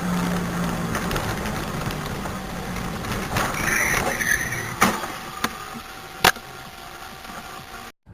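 Car driving, its engine and road noise heard as a steady rush with a low hum, broken by two sharp knocks, one just under five seconds in and one about a second and a half later.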